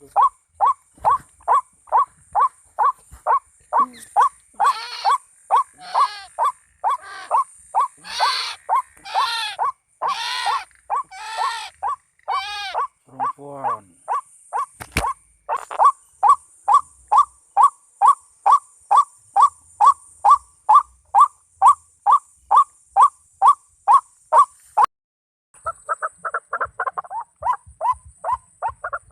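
White-breasted waterhen (ruak-ruak) calling: short, even notes repeated about two a second. Between about 4 and 13 s fuller, harsher calls rise over them. The calling breaks off briefly near the end, then starts again.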